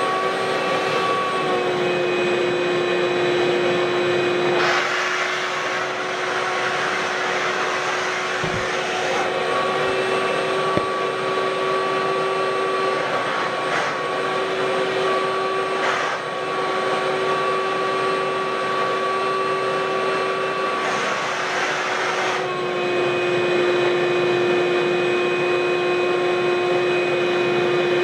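Ridgid WD1450 wet/dry shop vacuum running steadily with a whining hum that shifts slightly in pitch, and a louder rush of air now and then as it is worked over carpet.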